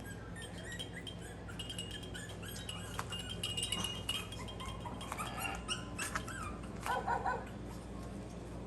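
Maltese puppies whimpering and squeaking: many short, high-pitched cries that grow busier and louder through the middle, with a louder, lower cry about seven seconds in.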